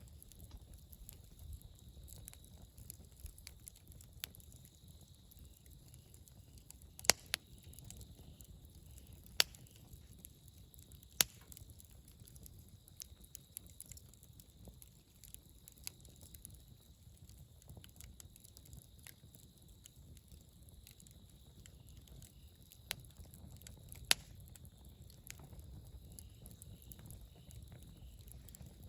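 Wood campfire burning with a low, steady rumble and scattered sharp crackles and pops, a few of them loud, about 7, 9, 11 and 24 seconds in.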